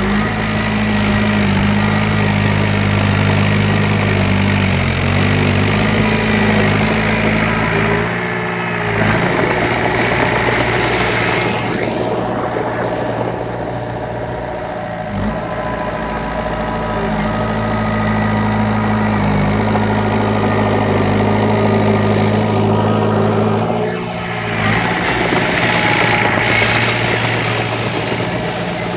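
Diesel engine of earthmoving machinery running steadily. Its low note eases off about a third of the way in, comes back after a few seconds, and dips briefly again near the end.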